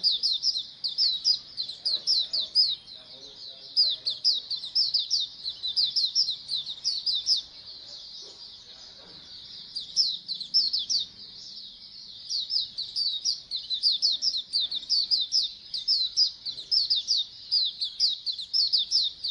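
A flock of oriental white-eyes (pleci) chirping together in a dense, rapid stream of high, quick down-slurred notes. The chorus eases off for a few seconds midway, then comes back just as busy.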